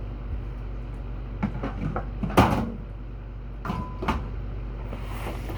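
Knocks and clunks of drink cans and bottles being handled and set into a small fridge, the loudest about two and a half seconds in, over a steady low hum.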